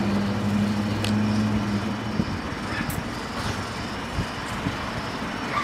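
Road vehicle noise: a steady low hum for about two seconds over a constant rushing noise.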